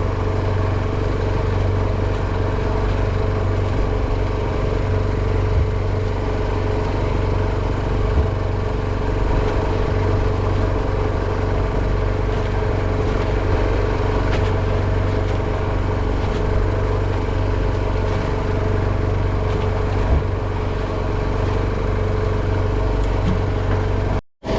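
Boat engine running steadily at constant speed, an even drone that does not change, with a few faint knocks and a brief cut-out just before the end.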